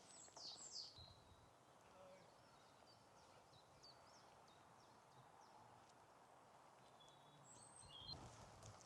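Near silence: faint outdoor quiet with a few faint, high, short chirps from small birds near the start and again near the end.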